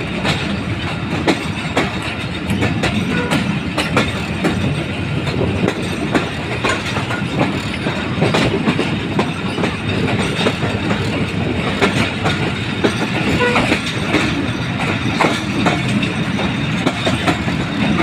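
Passenger train carriage running over the track as it picks up speed, wheels clicking irregularly over rail joints and points above a steady rumble.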